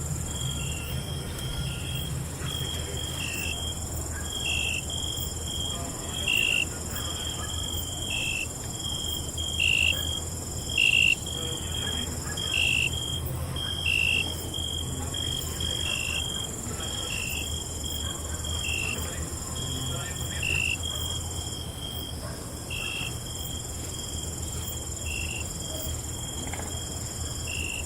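Crickets chirping at night: a steady high trill, a higher steady trill above it, and a repeating chirp about once a second. A low steady rumble runs underneath.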